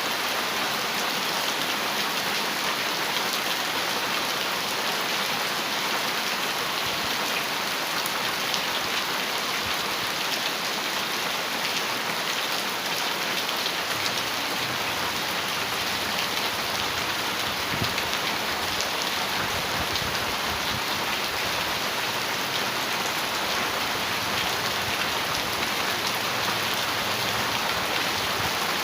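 Heavy rain falling steadily on a metal roof: a dense, even hiss flecked with the ticks of individual drops.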